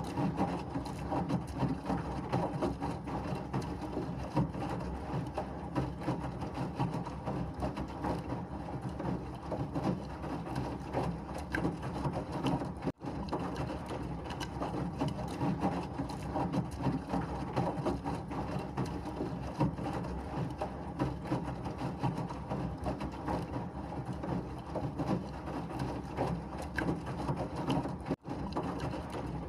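Washing machine running with a steady churning, rattling wash noise. It cuts out for a split second twice, once about midway and once near the end.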